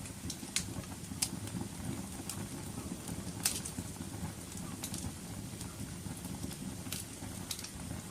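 Wood fire burning in a fireplace: a steady low roar of the flames with sharp, irregular crackles and pops, the loudest about a second in and midway through.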